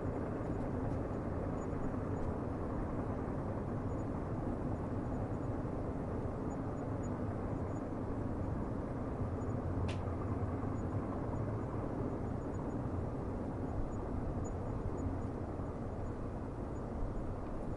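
Steady low rumble of a distant train running, with one sharp click about ten seconds in.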